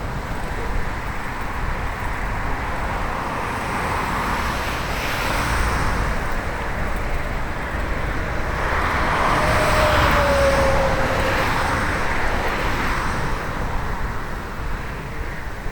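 Motor traffic passing a moving bicycle: tyre and engine noise swells as vehicles go by, loudest about ten seconds in, when a faint falling tone sounds as one passes. Steady wind and road rumble from the ride lie underneath.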